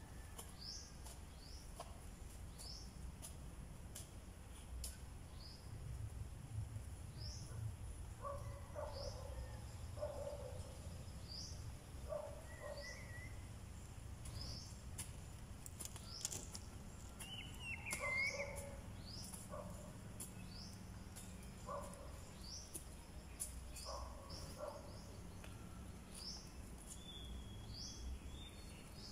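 Garden ambience: a bird repeating a short rising chirp about every one to two seconds, with a few other calls and faint scattered clicks.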